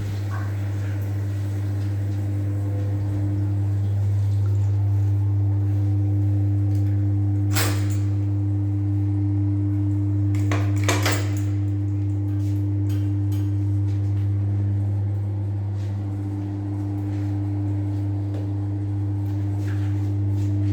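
A steady low hum, with a knock about eight seconds in and a short cluster of clicks around eleven seconds.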